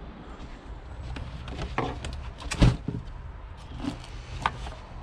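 Scrap being handled: a few scattered knocks and clatters, the loudest about two and a half seconds in, over a low steady rumble.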